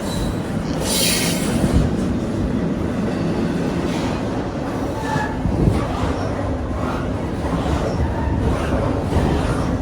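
A train rolling past, a steady rumble of wheels with frequent clicks over the rail joints and a few brief squeals.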